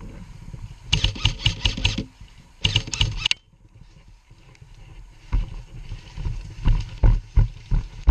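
Two short bursts of full-auto fire from an electric airsoft rifle, the gearbox rattling out shots in quick succession, about a second in and again near the middle. From about five seconds in, a steady run of low thuds, about three a second.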